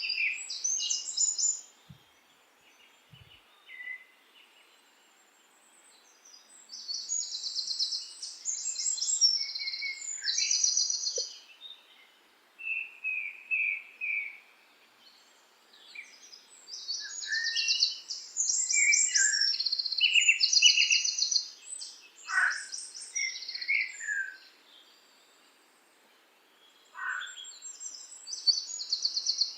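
Songbirds singing: phrases of fast, high trills and chirps a few seconds long with short quiet gaps between them, and a couple of quick downward-sliding notes in the second half.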